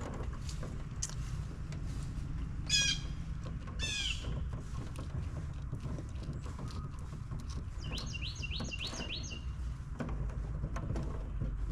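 A songbird calling in short series of quick falling chirps, with a faster run of notes near the end, over a steady low hum.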